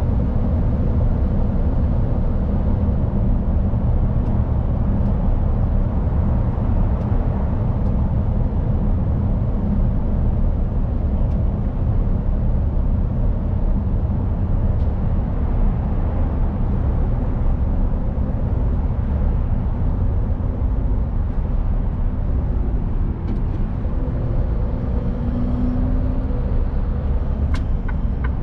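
Mercedes-Benz Actros truck's diesel engine running steadily while driving, with road and tyre noise; a few sharp clicks near the end.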